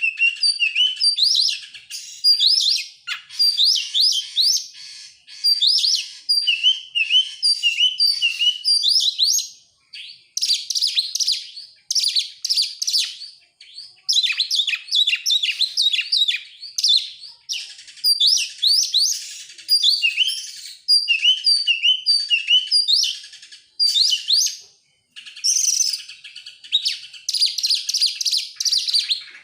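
Oriental magpie-robin (kacer) singing almost without a break: a fast, varied, high-pitched song of whistles, trills and repeated down-slurred notes, with short pauses between phrases. This is a lure song used to set other magpie-robins singing.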